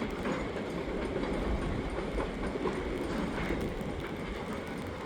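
A short cut of freight cars and a caboose, moved by CN's GP40-2W and GP38-2 diesel locomotives, rolling slowly through the yard. It makes a steady rumble with a few faint wheel clicks.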